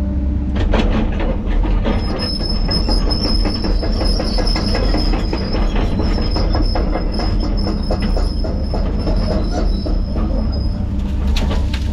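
Heavy machine's diesel engine running steadily under the work, with a high-pitched steady squeal starting about two seconds in and stopping near the end.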